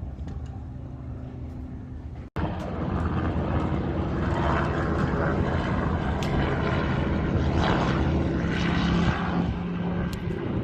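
Steady engine drone, which cuts out abruptly about two seconds in and comes back louder and busier.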